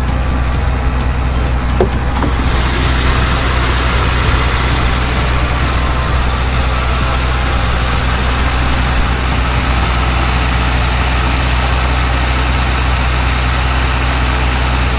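Mercedes-Benz SL600's M275 twin-turbo V12 idling steadily, a constant low hum with a hiss that grows a little brighter about two seconds in.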